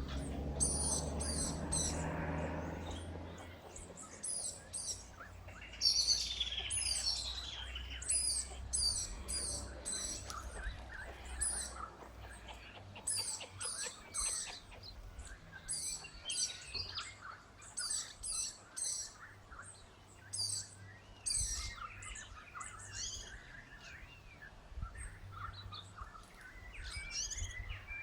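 Birds chirping: short, high-pitched chirps repeated in quick runs of several a second, with gaps between the runs. A low rustling rumble sounds during the first few seconds.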